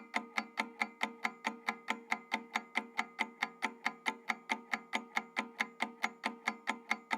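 Countdown-timer sound effect: fast, even clock-like ticking, about five ticks a second, over a steady low tone.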